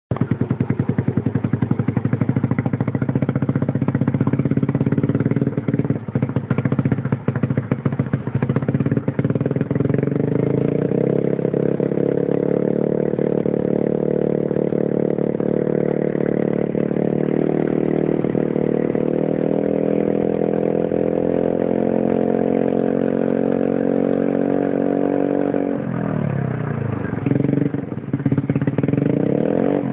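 Yamaha Mio scooter's single-cylinder four-stroke engine running through an aftermarket racing exhaust. It is choppy and uneven for the first ten seconds, then runs steadier and a little higher. Near the end the revs twice drop and climb back.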